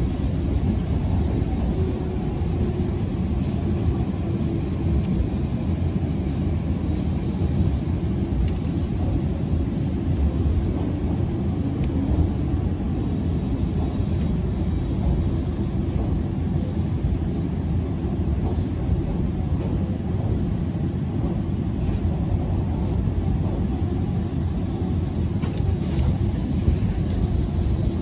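Steady running noise of a Hanshin 'Jet Car' commuter train heard from inside the driver's cab: a continuous low rumble of wheels on rail and motor, with no distinct events.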